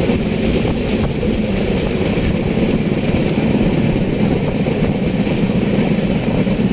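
Passenger train running at speed, heard through an open coach window: a steady, loud rumble of wheels on the rails mixed with rushing air.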